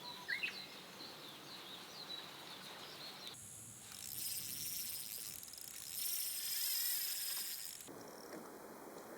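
Insects chirping, crickets among them. The sound changes abruptly about three seconds in to a louder, higher-pitched insect chorus, and shifts again near the end.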